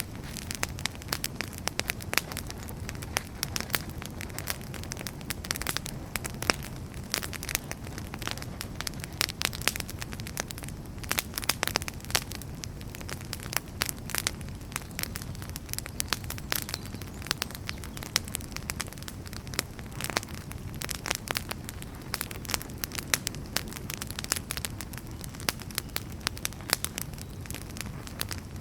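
Firewood burning in a fireplace: constant crackling with many irregular sharp pops over the steady low rumble of the flames.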